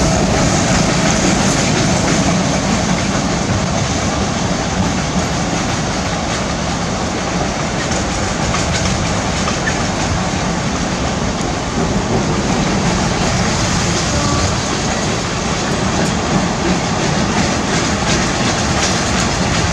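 Container train hauled by a WAG9 electric locomotive rolling past: a steady rush of wagon wheels running on the rails, with scattered clicks of wheels over rail joints.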